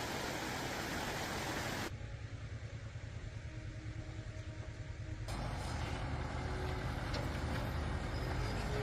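Steady low engine-like rumble, like a motor idling. The hiss above it changes abruptly twice.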